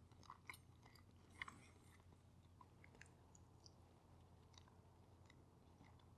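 Faint mouth sounds of a person chewing a bite of cooked chicken breast: a few soft, scattered clicks, the most distinct about a second and a half in.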